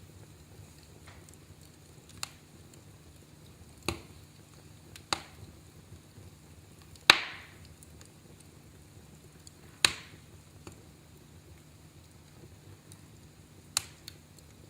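Wood fire crackling in a fireplace: a faint steady hiss under about six sharp, scattered pops of burning wood, the loudest about seven seconds in.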